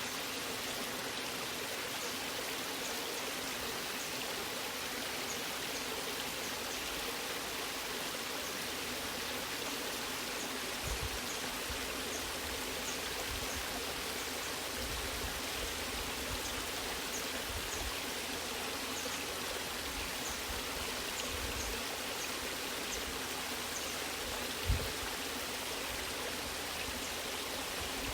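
Waterfall water rushing and splashing steadily. Several short low thumps come in the second half, one sharper near the end.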